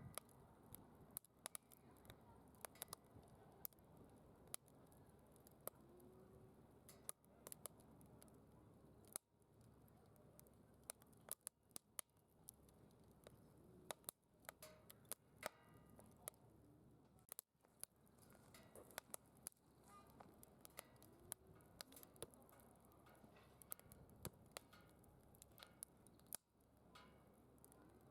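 Firewood burning in a DOD Mecha Moe Fire secondary-combustion fire pit, crackling with frequent sharp snaps and pops at irregular intervals over a faint, low hiss.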